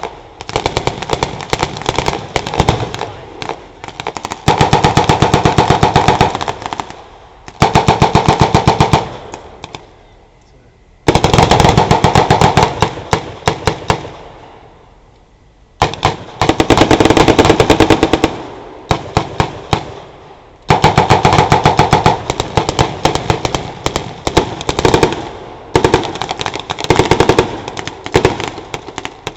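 Firefight of automatic weapons firing blanks: long bursts of rapid shots lasting two to four seconds each, separated by scattered single shots and two short lulls.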